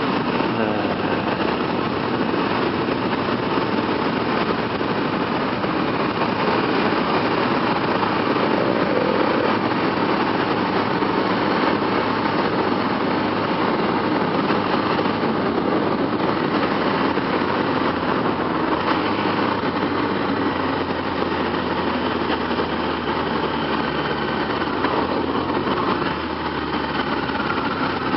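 Steady wind rush from riding, heard from inside a helmet, with a motorcycle engine running underneath; near the end a tone falls slowly in pitch as it slows.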